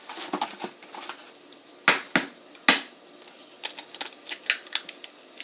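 Eggshell cracking against the edge of a bowl: three sharp cracks about two seconds in, then a run of lighter clicks and taps as the shell is pulled apart and handled.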